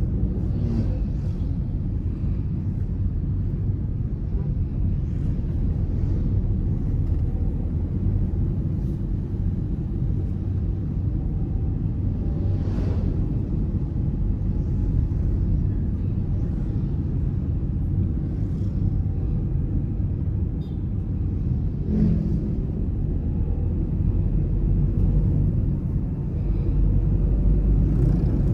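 Steady low rumble of a car on the move, road and engine noise heard from inside the cabin, with a few brief faint swishes and a short knock about 22 seconds in.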